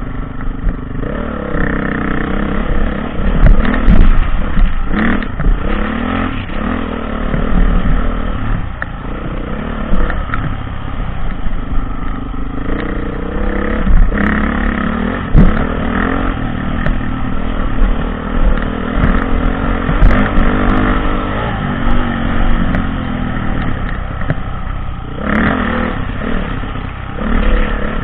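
Dirt bike engine revving up and down over and over as it is ridden off-road, with scattered knocks and clatter from the bike.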